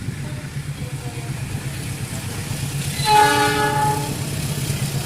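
A diesel locomotive's horn sounds one blast of about a second, a chord of several tones, roughly three seconds in. Under it runs a steady low engine rumble.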